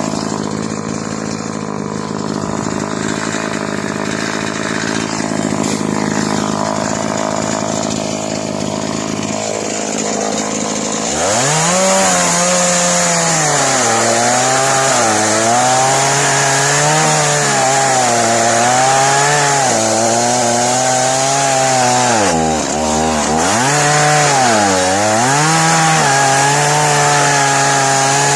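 Chainsaw running steadily at first, then revved up about a third of the way in and cutting through aspen wood, its engine pitch wavering and dipping as it bogs under the load of the cut.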